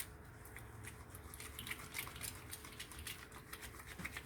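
Hands working a bar of cold-process soap into a lather, with faint, irregular wet crackles and squishes from the soapy skin.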